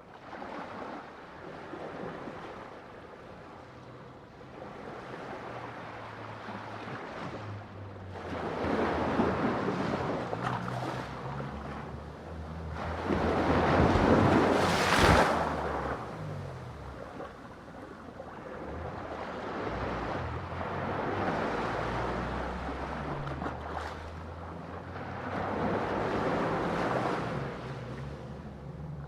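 Ocean waves breaking on a shore in slow surges, each wash swelling and fading over a few seconds, the loudest cresting about halfway through, over a steady low rumble of surf.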